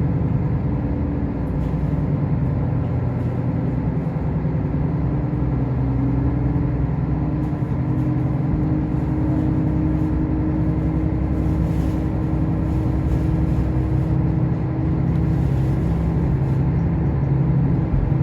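Diesel railcar heard from inside the car, its engine and running noise making a steady low hum.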